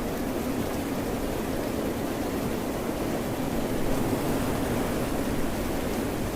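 Steady, even rushing noise of rain and ocean waves, deep in tone, with no distinct splashes or breaks.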